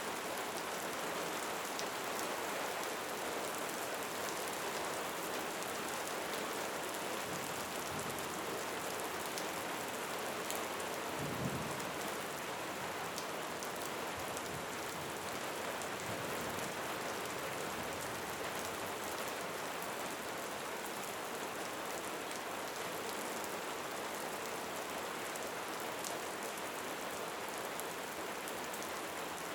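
Steady rain falling, an even hiss with scattered sharp drop ticks. A brief low thump about a third of the way through.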